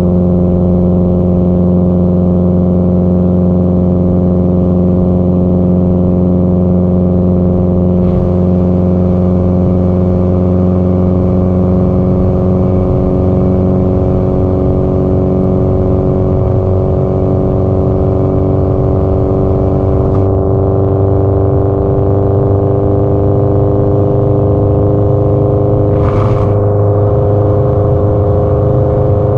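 Subaru Impreza WRX STI (GDB-E) turbocharged flat-four exhaust running steadily while cruising on the expressway. The engine note rises slowly in pitch over the second half, and a short hiss comes near the end.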